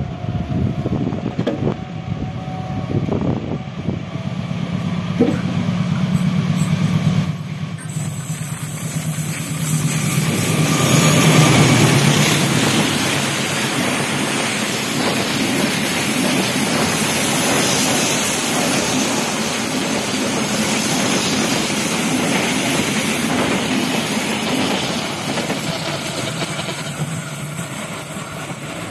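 Diesel-hauled passenger train: first a low steady hum of the approaching locomotive, then from about eight seconds in a loud steady rush of steel wheels on rails as the coaches pass close by, loudest a few seconds later and easing slightly near the end.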